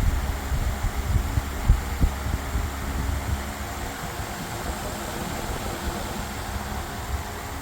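Electric fan running steadily with a whirring air noise and a faint hum. Its airflow buffets the microphone with low, uneven rumbling gusts that ease off after about three seconds.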